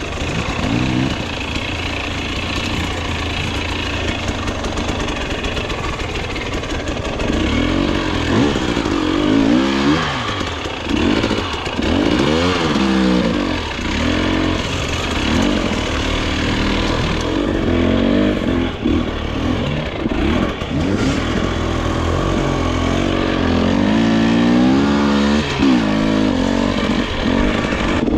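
Dirt bike engine being ridden over rough trail, the throttle opened and closed again and again so the engine note keeps rising and falling.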